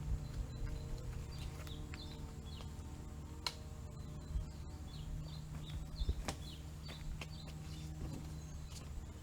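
Small birds chirping over and over, short high chirps every fraction of a second, over a steady low hum, with a few sharp knocks about three and a half and six seconds in.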